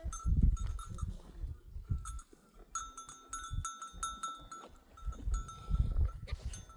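Bells on a herd of goats jangling and clinking irregularly as the animals move. Loud low rumbles come at the start and again near the end.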